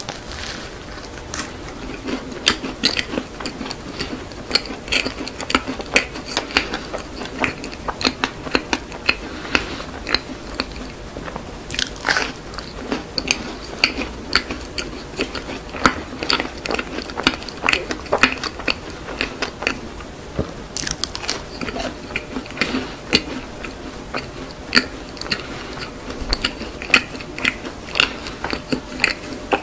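Macaron being bitten and chewed close to the microphone: light crisp crunches of the shell and soft, wet chewing, with two sharper bites partway through.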